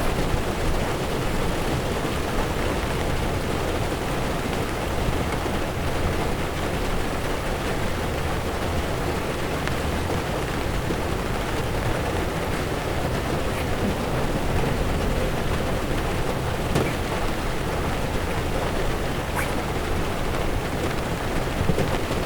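Heavy rain falling on a car's windshield while the tyres run on a wet road: a steady rushing hiss over a low road rumble, with a few faint drop ticks.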